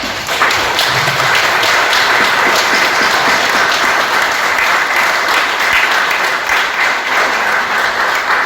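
A crowd of guests clapping: dense applause that swells in at once, holds steady, and dies away near the end.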